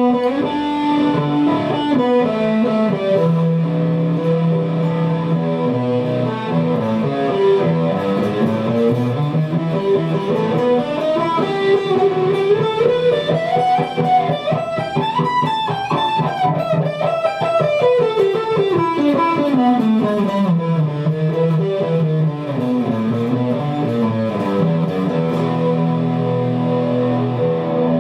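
Guitar music: quick runs of plucked notes climb steadily to a high peak about halfway through, then wind back down, over sustained low notes.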